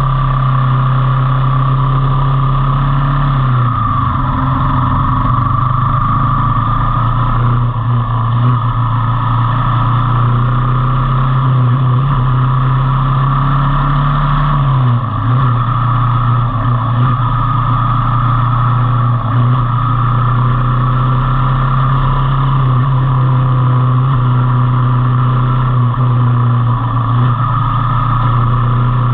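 Motorcycle engine running steadily at speed. Its note dips briefly and recovers about four seconds in and again about fifteen seconds in, as the throttle eases or it changes gear.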